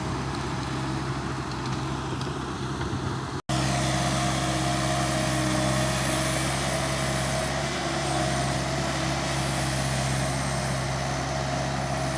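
Bobcat mini skid steer engine running steadily as it works, a constant drone with a higher steady whine over it. The sound drops out for an instant about three and a half seconds in, then carries on a little louder.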